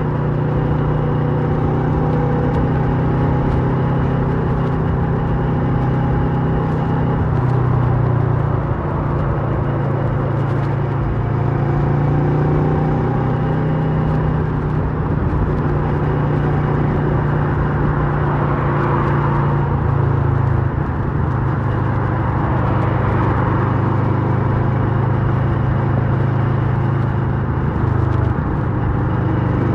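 Kawasaki Versys 650 parallel-twin engine running through a Mivv slip-on exhaust while the motorcycle is ridden, its pitch shifting up and down every few seconds with throttle and gear changes, over wind and road noise.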